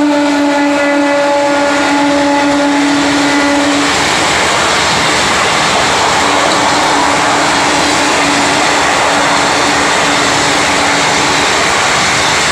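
A WAP4 electric locomotive's horn sounds as it speeds past at about 90 km/h, its pitch already dropped as it goes by, and stops about four seconds in. The passenger coaches then rush and rattle past steadily, and a fainter horn tone comes back about six seconds in for several seconds.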